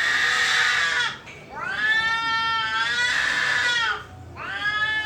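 Fighting cats yowling: long, drawn-out wails that rise and hold with short breaks between them, eerily like a human voice. One wail ends about a second in, a longer one follows, and another begins near the end.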